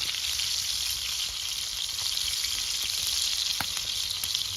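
Fish frying in hot oil: a steady sizzle with a few sharp pops.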